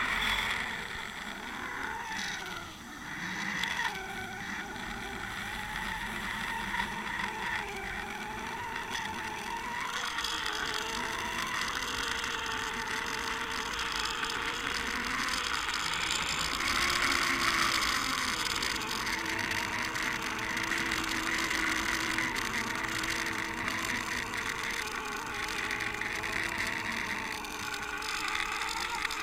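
Muffled underwater rush of water past a Water Wolf fishing camera towed behind a boat, with a faint wavering hum from the boat's motor.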